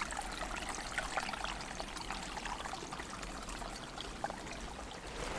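A small forest stream trickling and gurgling steadily over stones.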